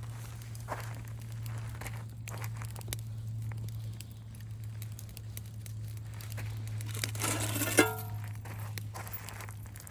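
Crinkling and crackling with scattered small clicks over a steady low hum, and a brief ringing clink about eight seconds in.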